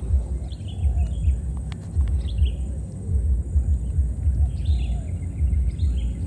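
Birds chirping several times, short high calls, over a constant low uneven rumble.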